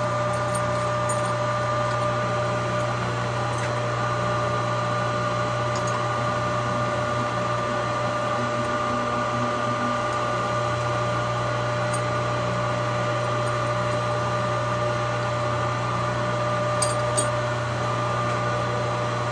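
Electric well pump motor running with a steady hum. Two light clicks near the end.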